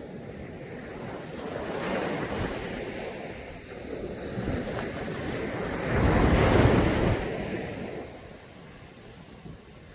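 Caribbean sea waves breaking on a beach. The surf noise builds, one wave breaks loudest about six seconds in, then it washes out and eases into a quieter lull near the end.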